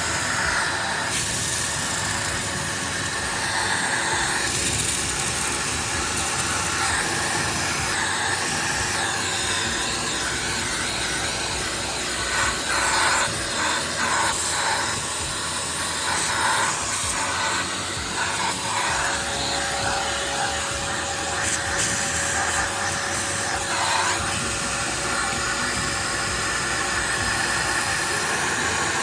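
Wet vacuum cleaner running steadily, sucking up rinse water poured over the air conditioner's fan, with a faint steady hum tone under the rush of air.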